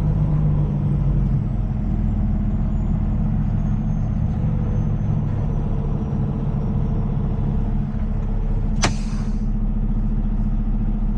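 Large truck engine idling steadily, with a faint high whine slowly falling in pitch. About nine seconds in, a single sharp snap followed by a short hiss.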